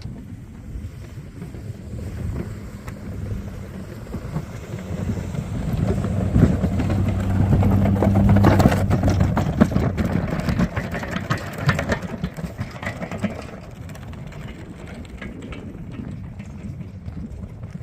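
Engine of a snow-plowing vehicle running steadily. It grows louder toward the middle, with rougher noise over the hum, then fades again as it moves off.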